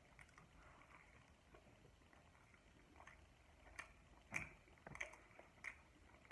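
Quiet close-up chewing and wet mouth smacks of a person eating, faint at first, with a few sharper smacks in the second half.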